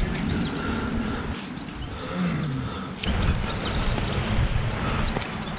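Small birds chirping, many quick short calls, over an uneven low rumble.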